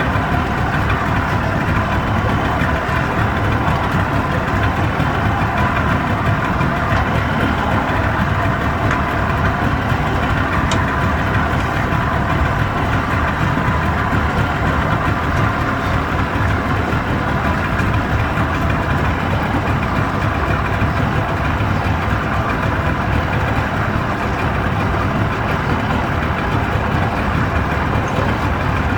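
An engine running steadily at an even pace, with no change throughout.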